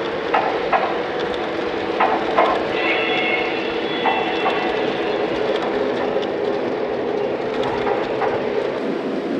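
Lionel O gauge model train running on three-rail track: a steady motor hum with sharp clicks as the wheels pass over track joints. About three seconds in, a brief high steady tone sounds for roughly a second.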